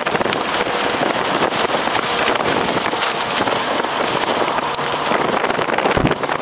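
Heavy thunderstorm rain beating down, a dense steady hiss full of sharp ticks of drops, with a brief low thud near the end.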